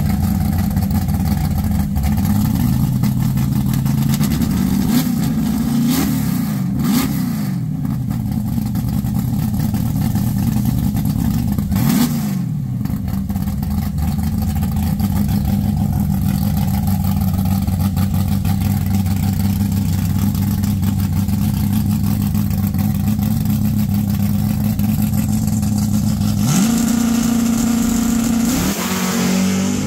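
Chevrolet Malibu drag car's engine idling at the starting line, blipped up and back down a few times about six and twelve seconds in. Near the end it comes up on revs and the car launches, the pitch climbing steeply as it pulls away.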